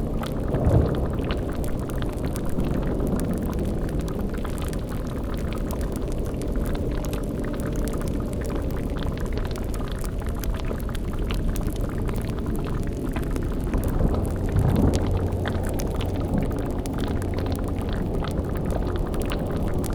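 Layered spooky ambience: a cauldron bubbling over a steady low rumbling drone, with a louder low swell about a second in and another around fifteen seconds in.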